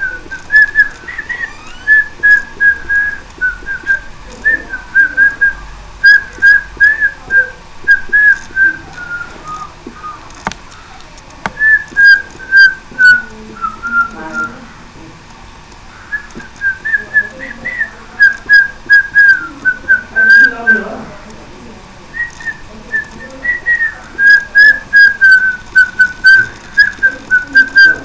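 A whistled tune: a single line of short, quick notes moving up and down in phrases, with brief pauses between phrases, about ten, fifteen and twenty-one seconds in.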